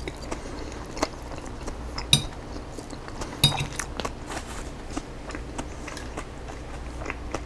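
Close-up chewing and biting of a crunchy chicken salad with cabbage, jalapeño and green onion, with a metal utensil clinking against the bowl twice, about two seconds and three and a half seconds in.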